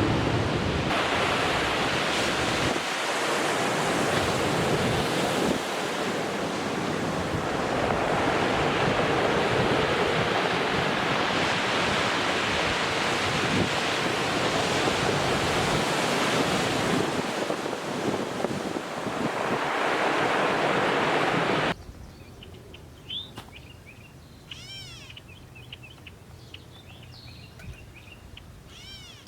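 Ocean surf washing onto a beach, a steady rush that swells and falls back. About two-thirds of the way through it cuts off suddenly to a much quieter scene with a few small bird chirps.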